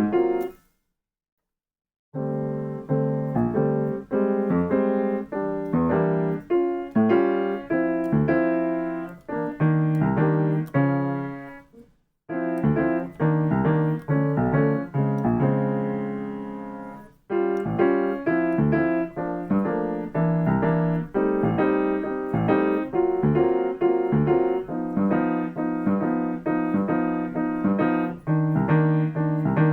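Piano playing jazz accompaniment chords in a repeated rhythm pattern, as comping practice. The playing stops briefly near the start and again for a moment about twelve seconds in.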